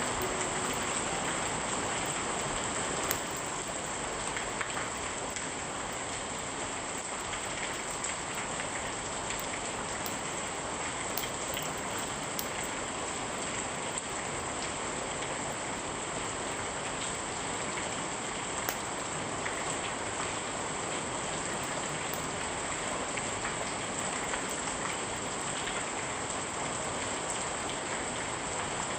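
Steady heavy rain falling on a surface, with scattered sharp clicks, the loudest about three seconds in.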